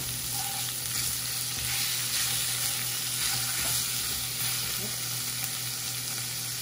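Cut-up seasoned chicken and sliced onion sizzling steadily as they sauté in a pan.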